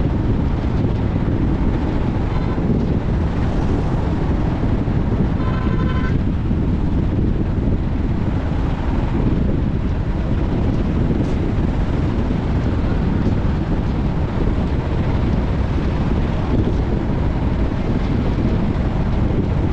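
Steady rumble of a car on the move, with road and wind noise on the microphone and a brief pitched tone about five and a half seconds in.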